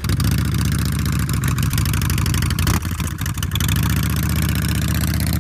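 Motorcycle engine idling steadily with a rapid low pulsing, added as a sound effect for a toy Harley-Davidson motorcycle.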